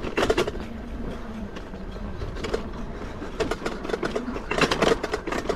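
Electric bike ridden hard over a rough, sandy dirt track: the frame and cheap spring suspension rattle and clunk irregularly over the bumps, over a steady low rumble and a faint motor whine that dips and rises.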